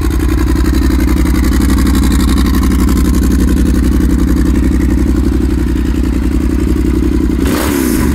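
A 2013 Yamaha XT1200Z Super Tenere's parallel-twin engine idles steadily through a full Arrow aftermarket exhaust, with a nice deep, thumping sound. Near the end the throttle is blipped and the engine revs up sharply, quite a roar.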